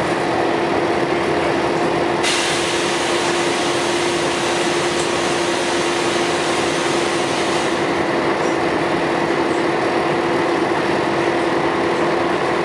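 Scania L113CRL bus running with a steady engine hum; about two seconds in, a loud hiss starts suddenly, holds for about five seconds and then fades out.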